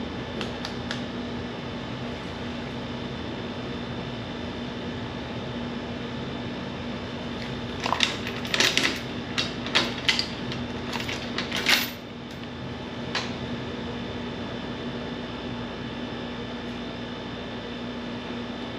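Steady mechanical hum with a constant low tone. About eight seconds in there is a few seconds of sharp clicks and light clatter of hard objects being handled, with one more click shortly after.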